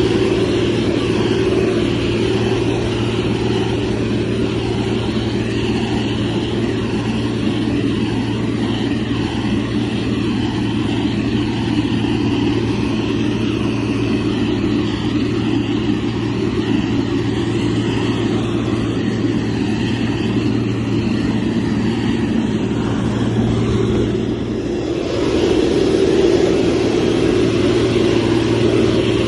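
Heavy diesel engine of a motor grader running steadily under load. It eases off briefly about three-quarters of the way through, then picks up again a little louder.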